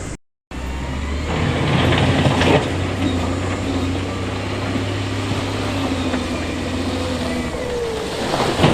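Heavy diesel construction machinery running steadily under load, its engine drone the main sound. The sound cuts out briefly just after the start, there is a rougher, noisier stretch about two seconds in, and there is a sharp loud burst near the end.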